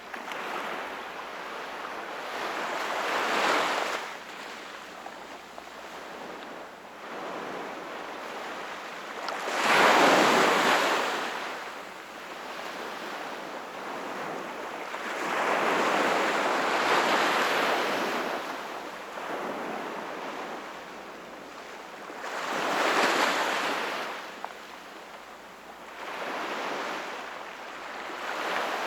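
Sea waves breaking and washing ashore in slow surges about every six seconds, the loudest about ten seconds in.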